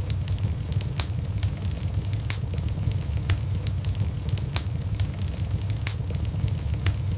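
Wood fire burning in a fireplace and crackling, with frequent sharp irregular pops over a steady low rumble.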